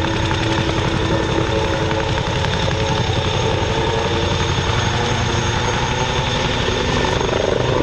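Wildcat HMA Mark 2 helicopter in flight: the steady rapid chop of its rotor blades under a steady high turbine whine.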